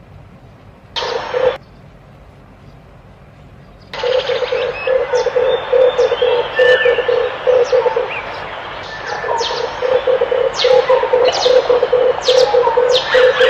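Red turtle dove cooing: one short burst about a second in, then a long run of rapid, pulsing low coos from about four seconds in, with a brief lull near the middle. Short, high chirps of other birds sound over the cooing.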